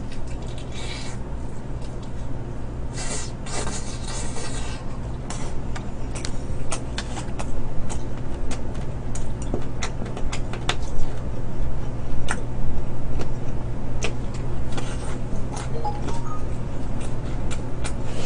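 Close-up chewing and crunching of fried chicken drumsticks, with many scattered crisp clicks and a denser burst of crunching about three seconds in, over a steady low hum.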